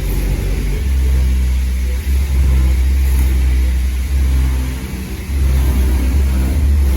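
Car engine running with a heavy low rumble, easing off briefly about two seconds in and again about five seconds in.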